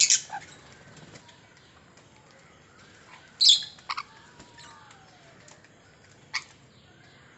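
Pet birds giving a few short, sharp, high calls: one at the start, two close together about three and a half seconds in, and one more near the end, with a faint falling whistle in between.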